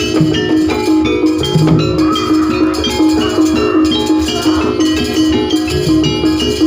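Jaranan pegon music: a Javanese gamelan-style ensemble with metallic gong-chime notes struck in a steady, even pulse over drums. A wavering melody line comes in about two seconds in and fades out near the middle.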